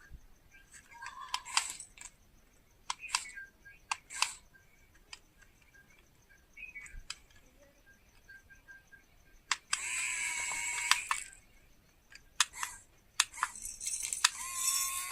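Plastic toys being handled: scattered clicks and taps, with a noisy scraping burst lasting about a second and a half about ten seconds in and a shorter wavering one near the end.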